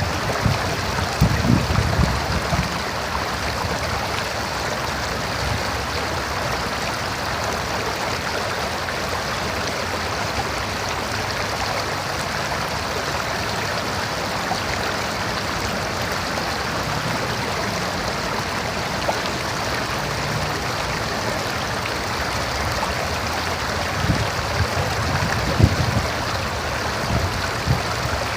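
River water rushing and splashing steadily over its bed, with a few brief low rumbles near the start and again near the end.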